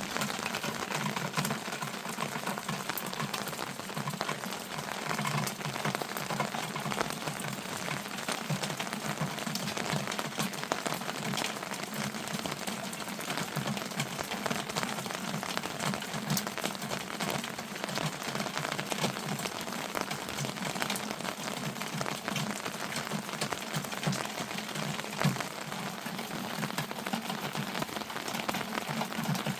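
Heavy rain falling steadily, a dense, even patter of many small drop impacts.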